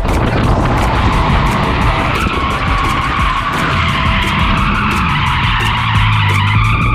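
Ford AU Falcon drift car sliding, its tyres skidding continuously over the running engine, with music playing underneath.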